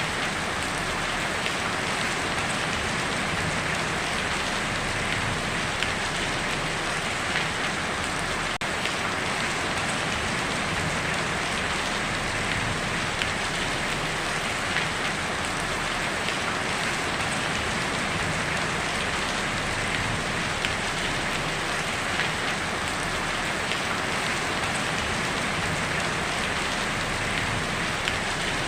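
Heavy rain drumming steadily on a tin roof, a dense even patter with occasional slightly louder drops.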